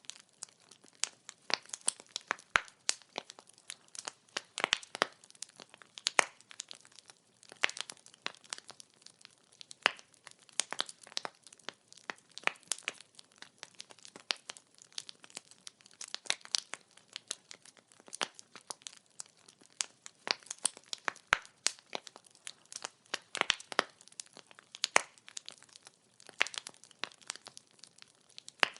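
Firewood burning with an irregular crackle: sharp pops and snaps, several a second, some louder than others, over a faint background.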